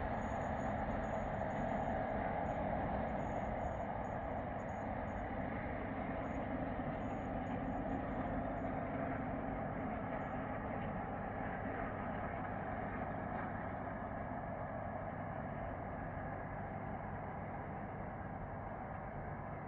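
Diesel locomotive-hauled passenger train moving away, its steady rumble slowly fading as it goes.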